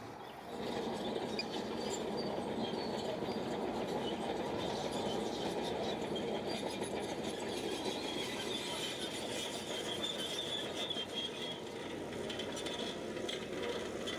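Shantui bulldozer running under work, with a steady machine noise and a high-pitched squeal over it; the sound jumps louder about half a second in.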